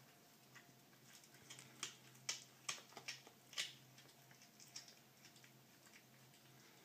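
A cat chewing a freshly caught bird: a run of sharp crunches and clicks, several in quick succession about one and a half to four seconds in, with quieter wet chewing ticks around them.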